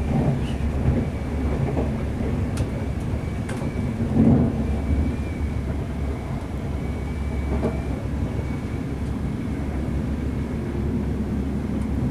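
Class 185 diesel multiple unit running, heard from inside: a steady low rumble of the underfloor diesel engine and wheels on rail, with a faint steady high whine, a few light clicks and one louder thump about four seconds in.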